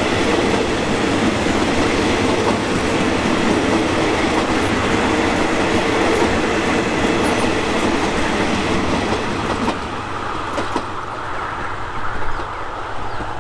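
Steel wheels of a long train of State Railway of Thailand passenger coaches rolling past, with intermittent clacks over rail joints and points. The sound eases after about ten seconds as the last coach passes and moves away.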